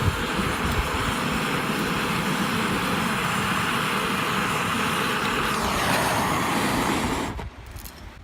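Torch burner on a cassette-stove butane canister running flat out, a steady jet hiss of flame played onto firewood to light a campfire. It shuts off suddenly about seven seconds in.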